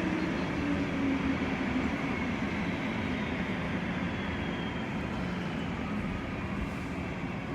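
Airbus A330 jet engines running at idle as the airliner taxis in to the gate: a steady rumble with a faint low hum, easing slightly near the end.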